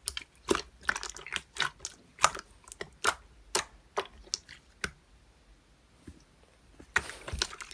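Slime being pressed and worked by hand, giving irregular sticky clicks and small pops, with a quiet gap of a second or two near the end.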